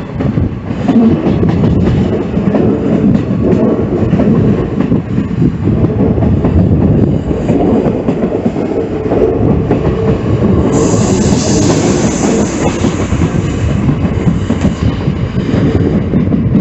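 Train running on the rails: a steady, loud rumble with the clickety-clack of wheels over rail joints. About eleven seconds in, a high hiss joins for roughly three seconds.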